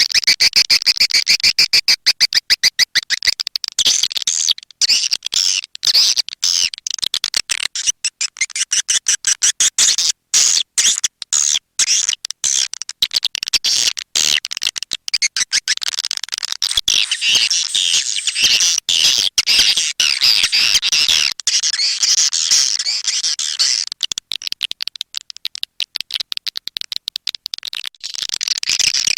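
Recorded swiftlet calls played as a nest-house lure: rapid, high-pitched chittering twitters and clicks repeating many times a second, broken into choppier stuttering clicks for a stretch and denser twittering in the middle and near the end.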